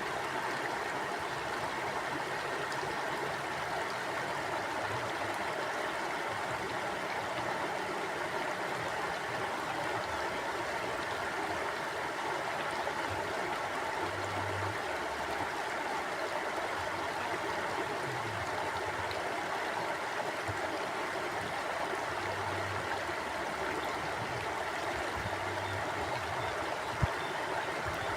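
Mountain stream flowing steadily over rocks, an even rushing and gurgling of water. A single short knock sounds near the end.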